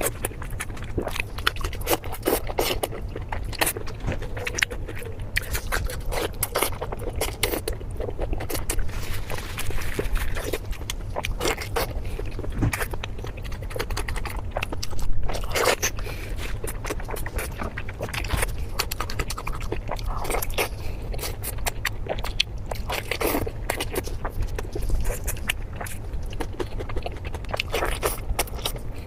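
Close-miked eating: a person biting and chewing food, with many irregular sharp clicks and crunches. A steady low hum runs underneath.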